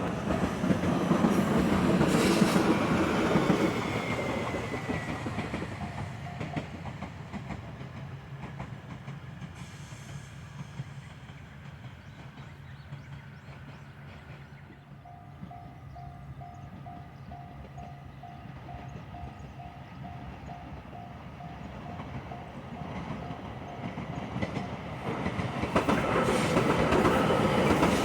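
Trains at a railway level crossing: a train clatters past loudly in the first few seconds and fades with a falling whine. About halfway, a crossing warning bell rings about twice a second, and another train passes loudly near the end.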